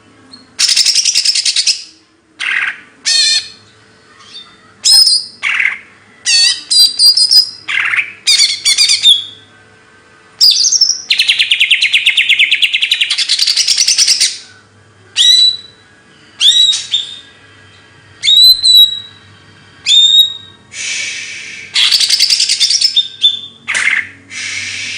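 A songbird singing loudly in separate phrases: rapid high trills, one long buzzing trill lasting about four seconds near the middle, and a run of short, sharp whistles that fall in pitch.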